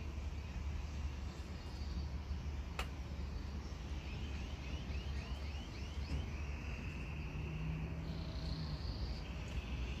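Songbirds singing: a quick run of about seven rising chirps near the middle, then longer held whistled notes and a rising note near the end. Under them a steady low rumble, with one sharp click about three seconds in.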